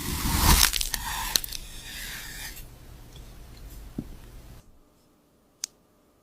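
AI-generated crunchy ASMR sound: dense crackling crunches and scraping, loudest in the first second and a half, then fading out about three-quarters of the way through, followed by a single sharp click near the end.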